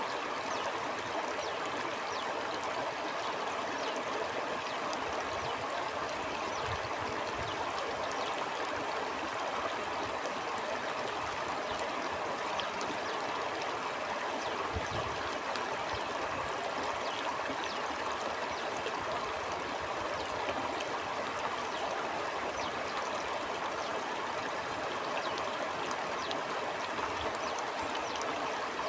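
Stream water flowing over stones: a steady rushing with fine bubbling and splashing, and a few soft low rumbles along the way.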